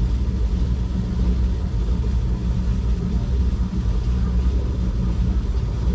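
Rock tumbler running, giving a steady low hum and rumble while it mixes pigeon grit.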